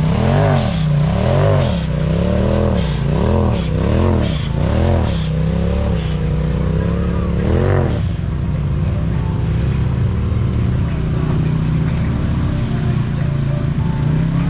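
Side-by-side UTV engine revving up and down in quick repeated swells about once a second, with sharp knocks among them, then settling to a steadier, lower running note about eight seconds in.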